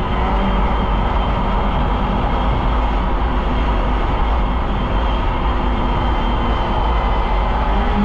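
Polaris Indy snowmobile engine running at a steady speed while riding, with a loud low rumble underneath.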